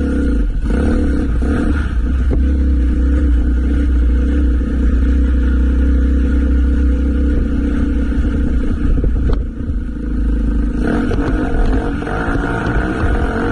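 Motorcycle engine running under way at a steady pace. Its note dips briefly about nine and a half seconds in, then rises toward the end as it accelerates.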